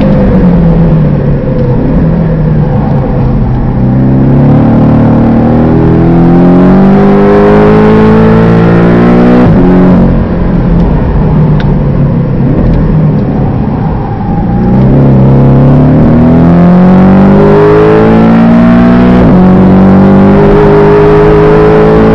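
Porsche Boxster engine heard from inside the cabin on a hard lap: the note climbs in pitch under acceleration and drops sharply at each gear change. Near the middle it falls to a lower, uneven note while the car slows for a corner, then climbs again.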